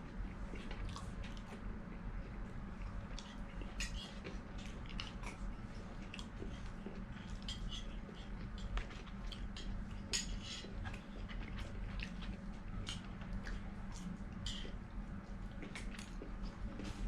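Someone eating a burger and fries: soft chewing with many small, irregular clicks and taps, over a steady low hum.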